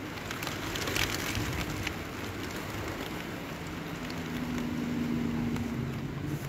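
Steady rain hiss with scattered drip ticks in the first couple of seconds. A motor vehicle's engine hum comes in during the second half, loudest around the middle, then drops lower in pitch near the end.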